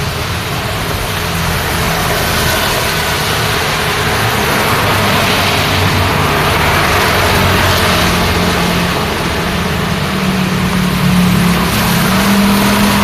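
Road traffic in the rain: a steady hiss of rain and wet tyres over running car engines, with one engine's low hum growing stronger over the second half.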